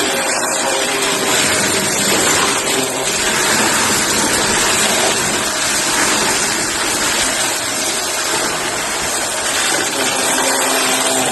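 Shark vacuum cleaner running steadily at full suction while vacuuming up a cardboard mess.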